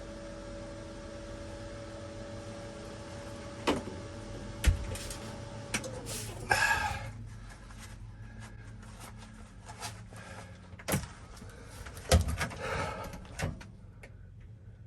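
A steady machine hum stops about six seconds in, its pitch falling as it winds down. Scattered knocks and clatter of tools and metal being handled follow, with two short scraping bursts.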